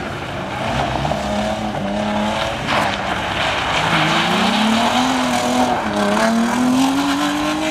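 Audi Coupé's engine revving hard, its pitch climbing and dropping several times as the car slides through turns, over a haze of tyres scrabbling on loose dirt and gravel.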